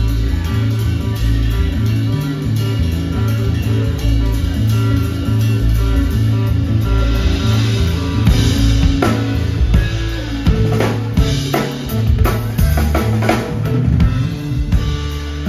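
Live rock band playing an instrumental passage: a drum kit keeps a busy beat over a moving bass line, with guitar and keyboards. The drums and cymbals grow busier about halfway through.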